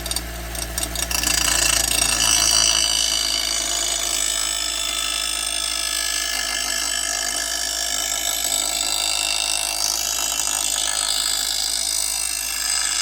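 Small grinder's wheel grinding a steel lawn mower blade's cutting edge in one long sharpening pass, a steady loud hiss that stops suddenly near the end, leaving the grinder motor running freely.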